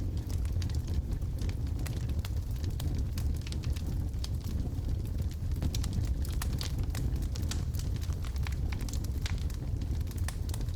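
Wood logs burning in a fireplace: many sharp crackles and pops at irregular intervals over a steady low rumble of the fire.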